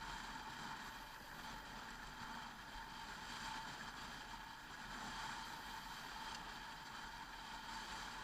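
Motorcycle running at a steady cruising speed, engine drone mixed with wind and road noise.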